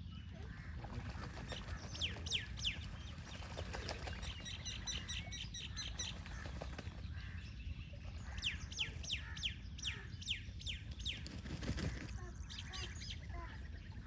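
Birds chirping in quick runs of short, sharply falling calls, busiest in two spells, over a steady low rumble.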